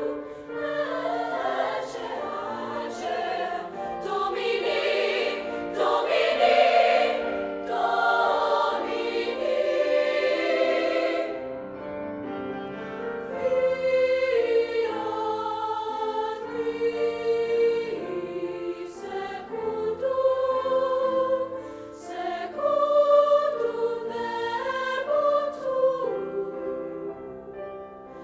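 Music: a choir singing sustained notes in several voices, fuller and louder in the first half and softer from about halfway through.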